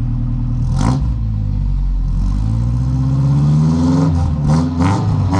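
1987 Toyota pickup's engine heard at the tailpipe of its new aftermarket exhaust, idling and then revved up so the exhaust note climbs and falls back. A sharp knock about a second in and a few sharp pops or knocks near the end.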